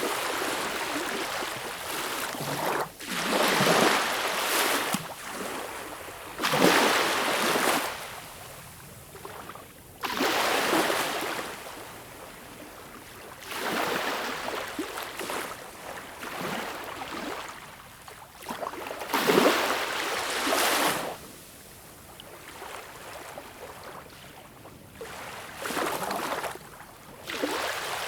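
Small waves breaking and washing up a beach, one after another every few seconds, each a swell of hiss that rises and falls away.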